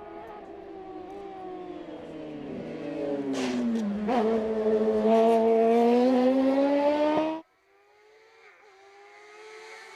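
Hill-climb race car engine approaching and growing loud, its pitch dropping as it slows, then climbing as it accelerates hard. It cuts off suddenly about seven seconds in, and a fainter engine note then rises.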